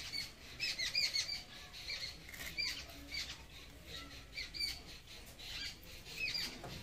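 Small birds chirping over and over, short squeaky calls several times a second, with a couple of sharp clicks in between.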